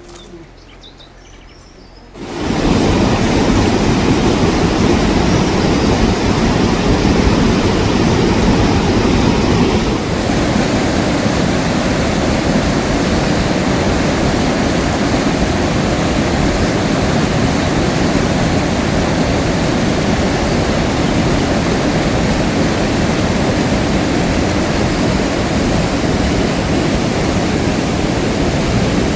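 Heavy rain falling, a loud steady rushing hiss that starts suddenly about two seconds in.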